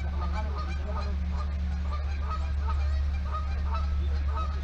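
A flock of birds calling, many short repeated calls overlapping, over a steady low hum.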